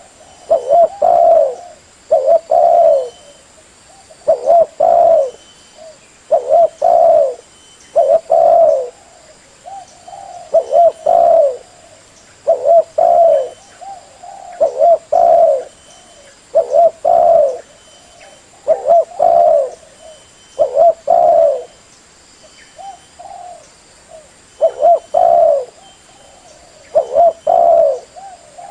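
Spotted dove (tekukur) cooing: a short phrase of a few low coos, repeated about every two seconds.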